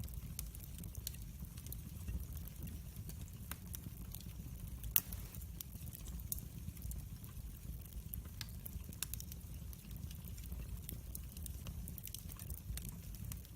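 Wood fire in a fireplace crackling, with a steady low rumble of the flames and irregular sharp pops and snaps, one louder pop about five seconds in.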